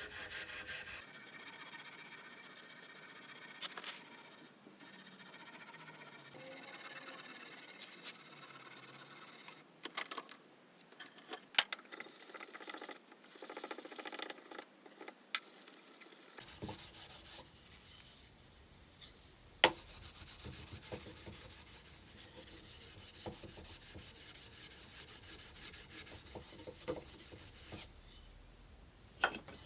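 Hand abrasive work on an old planishing hammer being restored: a steady scratchy rubbing of strokes for the first several seconds. After that come a quieter stretch of light scraping and scattered sharp clicks and taps, broken by edits about a second in and about sixteen seconds in.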